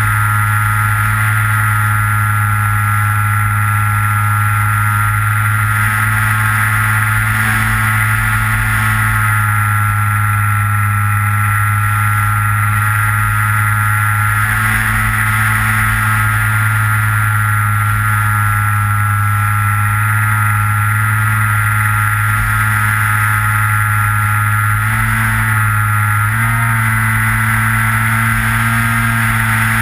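Electric motor and propeller of a Skywalker FPV model plane running steadily, picked up by the camera on board, with low wind rumble on the microphone; the pitch shifts slightly near the end.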